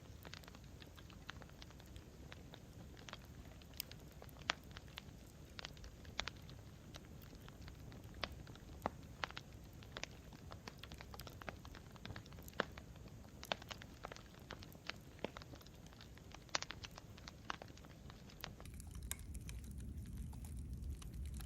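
Campfire crackling: irregular sharp snaps and pops from the burning wood over a low steady rumble of the flames, the rumble growing a little louder near the end.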